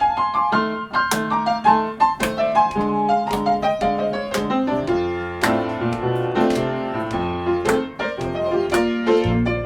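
Acoustic piano playing a blues introduction: struck chords and single-note runs in the treble, starting suddenly.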